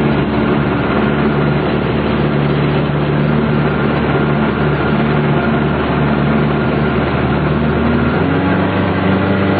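An engine running steadily under a constant noisy hum, its pitch stepping up slightly about eight seconds in.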